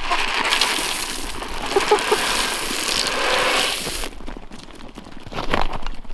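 Chicken feed being poured out: a steady rushing hiss for about four seconds that stops abruptly, followed by a brief clatter near the end.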